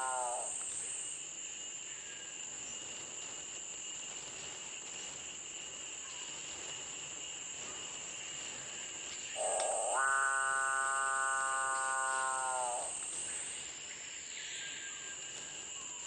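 Capuchinbird giving its long, low mooing call: a rough start swelling into a steady drawn-out moan of about three and a half seconds, a little past the middle, with the tail of an earlier call at the very start. A steady high-pitched insect drone runs underneath.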